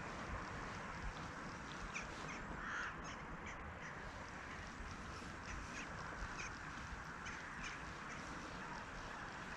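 Faint, crow-like bird calls come at irregular intervals over a steady background hiss.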